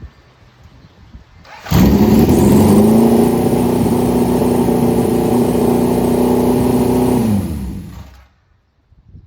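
Motorcycle engine brought up to a raised, steady engine speed for about five seconds, then let back down and fading out.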